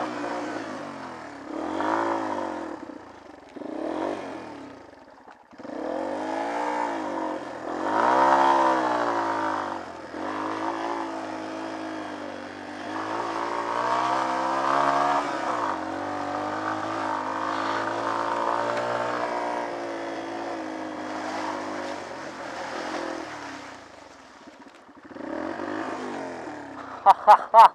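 Small trail motorcycle engine revving up and down while being ridden off-road: short blips of throttle at first, then longer rising and falling runs. A few sharp knocks near the end.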